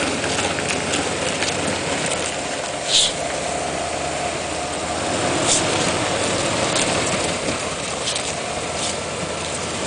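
Car with a damaged wheel and twisted axle being driven: a steady running noise of engine and rolling, with several short hissing scrapes, the loudest about three seconds in.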